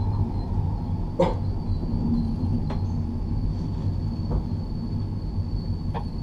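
Passenger train carriage running: a steady low rumble, with one sharp knock about a second in and a few lighter clicks after it.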